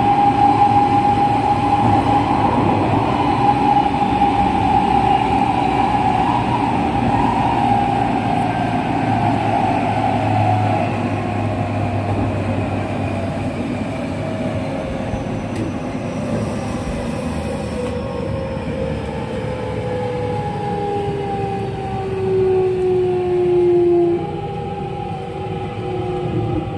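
JR West 207 series electric train running and slowing, its traction motors whining in several tones that fall steadily in pitch over a rumble of wheels on rail; a louder falling tone near the end cuts off suddenly.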